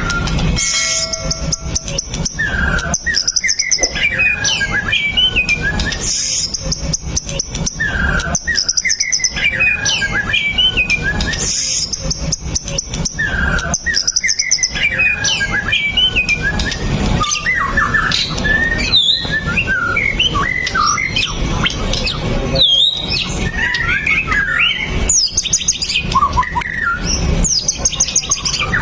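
White-rumped shama singing continuously: a new phrase of quick, gliding whistled notes every few seconds, mixed with rapid series of high chips, over a steady low background rumble.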